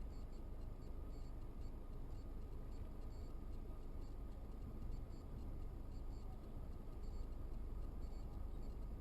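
Steady low rumble of a car's engine and road noise inside the cabin, with faint light ticking about once a second.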